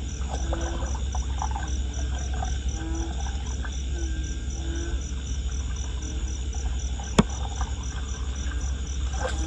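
Crickets chirping in an even, pulsing rhythm of about four chirps a second over a steady low rumble, with one sharp click about seven seconds in.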